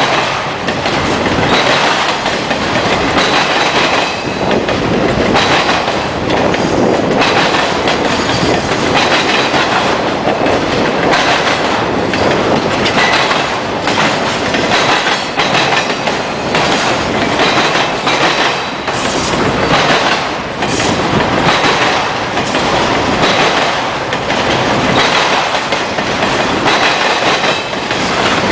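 Freight train cars rolling past with a steady clickety-clack of wheels over rail joints and a diamond crossing, and a light high wheel squeal.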